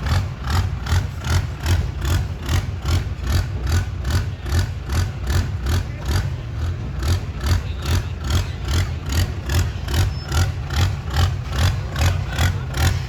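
Diesel truck engine idling with a heavy, rhythmic chug of about three pulses a second, running rich on fuel.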